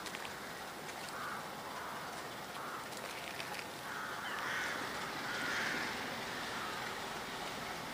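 A bird calling repeatedly over a steady outdoor hum: three short calls about a second and a half apart, then a longer run of calls in the second half.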